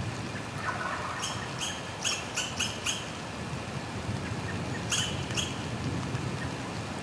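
Steady rain with a bird's short, high chirps: a run of about six between one and three seconds in, and two more about five seconds in.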